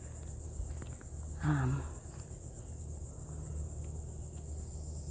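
Steady high-pitched chorus of insects, a continuous pulsing trill, with a short vocal sound from a person about one and a half seconds in.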